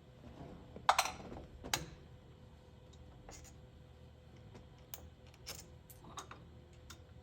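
Scattered light clicks and taps of small metal parts being handled: the Allen screws and spring-loaded horn button coming off a steering wheel, the sharpest click about a second in.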